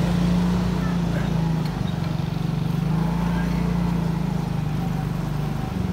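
Motorcycle engine running steadily while riding, its note wavering slightly with the throttle, over road and wind noise.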